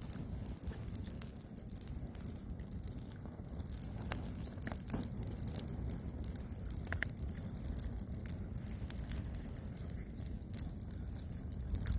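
Campfire burning, with a steady low rumble and scattered sharp pops and fine crackles, a few of them louder, about four and five seconds in and near seven seconds.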